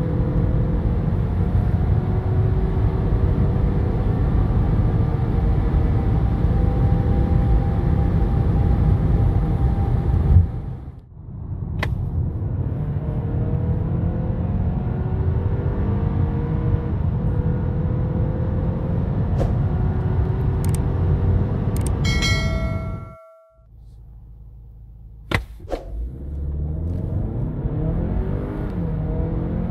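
2021 Kia Sorento's 2.5-litre turbocharged four-cylinder engine at full throttle, heard inside the cabin, climbing in pitch and dropping back at each upshift. It cuts off twice, and a brief ringing tone sounds just before the second quiet spell. The engine picks up again near the end for a standing-start launch.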